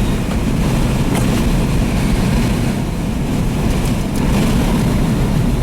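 A car driving at speed, its steady engine and road noise heard from inside the cabin.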